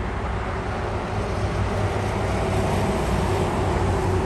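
Cargo jet's engines spooling up to takeoff thrust at the start of the takeoff roll: a steady, loud jet rumble with a faint whine, growing slightly louder.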